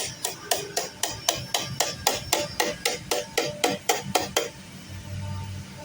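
Rapid hammer blows on sheet metal, about five strikes a second, as the beaded edge of a sheet-metal engine guard is beaten over. The hammering stops about four and a half seconds in, leaving a low steady hum.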